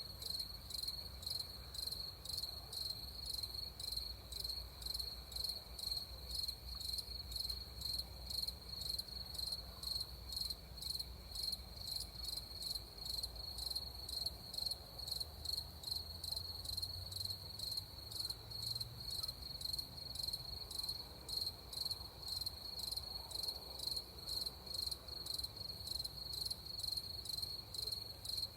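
Crickets chirping in a steady, evenly pulsing chorus, with a faint low rumble underneath.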